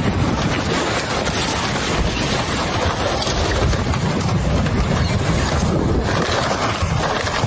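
Floodwater rushing steadily, heavy in the low end, with wind buffeting the microphone.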